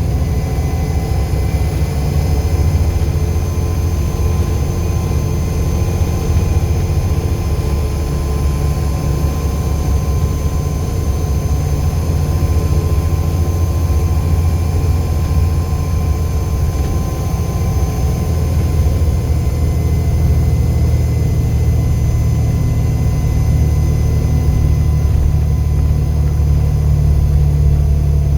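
Volvo B7 bus's diesel engine running steadily, a deep rumble with a thin, steady turbo whistle over it.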